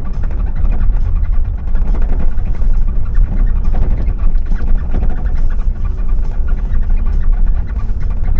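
Car driving along, its engine and tyre noise making a steady low rumble with many small rattles and knocks over it.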